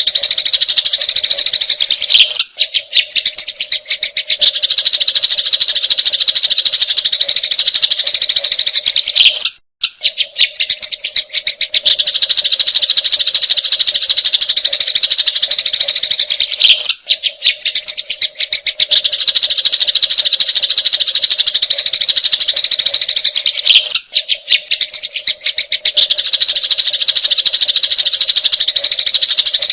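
Sparrows chattering in a fast, dense stream of sharp chirps: the agitated calls of sparrows fighting. The stream breaks off briefly about every seven seconds and starts again.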